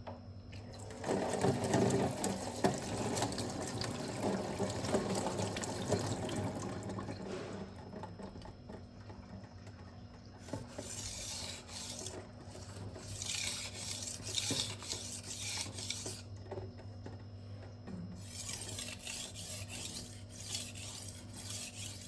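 Steel kitchen knife blade rubbing back and forth on a wet sharpening stone, a gritty scraping sound. It is dense at first, then comes in several separate hissing passes in the second half.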